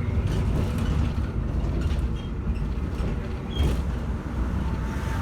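Bogdan T90110 electric trolleybus under way, heard on board: a steady low rumble of the running gear and road, with a few light clicks and rattles.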